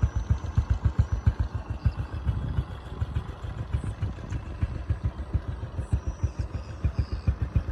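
Motorcycle engine running with a steady low pulsing beat, about five or six thumps a second.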